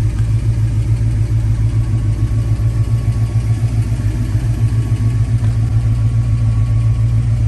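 1963 Ford Fairlane's engine idling steadily, a loud low rumble with a fast, even pulse.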